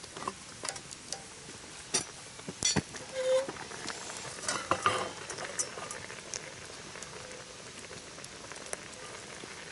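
Campfire crackling with sharp pops over a steady sizzle, the pops coming mostly in the first half.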